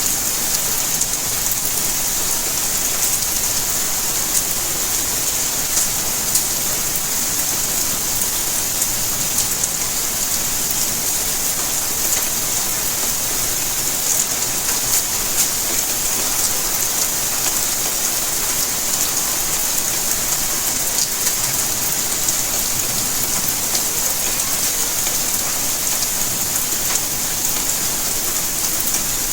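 Steady rainfall: a dense, even hiss of rain with many small drop ticks throughout.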